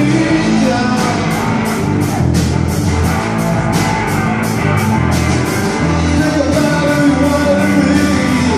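Blues-rock band playing an instrumental stretch of a song, guitar chords over bass and a steady drum beat with regular cymbal strokes.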